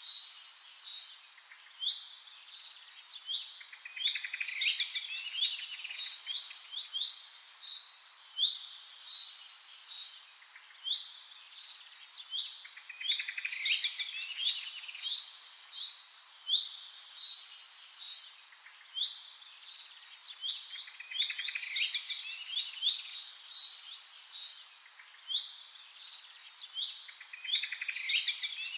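Birds chirping and trilling without a break, many short high calls overlapping.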